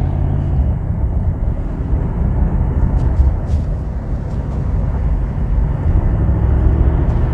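Mercedes-AMG SL 63's twin-turbo 4.0-litre V8 exhaust on the move in comfort mode with the exhaust valves opened by the exhaust button: a steady deep rumble, with not much in the way of pops and bangs.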